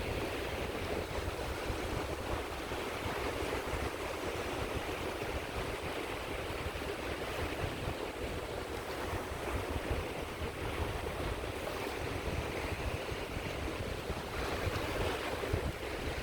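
Sea waves washing onto the shore of the Caspian Sea in a steady, continuous surf, with a stronger wash about fourteen seconds in.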